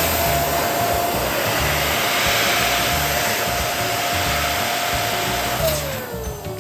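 Electric balloon pump running, a steady motor whine over a loud rush of air as a balloon is inflated. Near the end it is switched off and the whine falls in pitch as the motor winds down.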